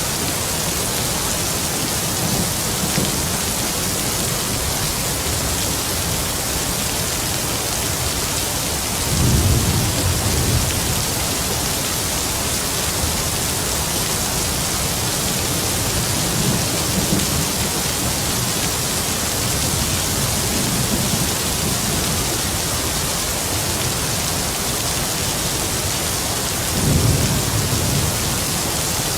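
Heavy rain falling steadily, a constant hiss, with several low rumbles of distant thunder; the loudest rolls come about a third of the way in and near the end.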